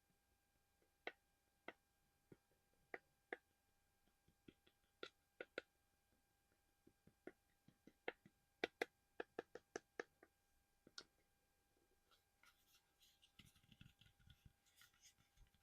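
Light, sharp taps on small hard collectible items, irregular and sometimes several a second, followed from about twelve seconds by soft scratching and rustling with low thuds as the items are handled.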